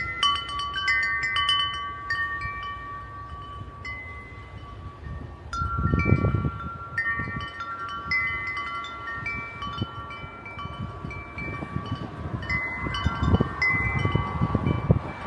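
Wind chimes ringing at random, overlapping notes that hang on, with gusts of wind rumbling on the microphone about six seconds in and again near the end.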